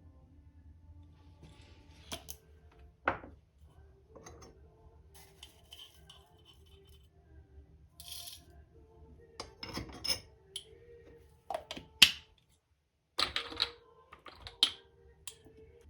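Scattered clinks and knocks of tea ware and utensils being handled, with a few sharper clinks about three seconds in, around twelve seconds and near the end.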